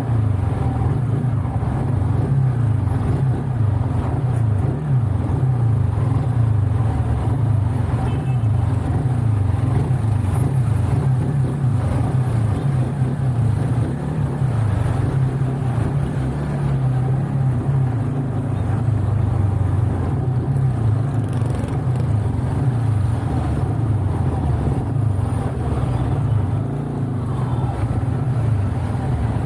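Motorcycle running at road speed: a steady, low engine drone with road and wind noise, recorded on an Insta360 One R action camera whose wind-noise reduction keeps the wind rush subdued.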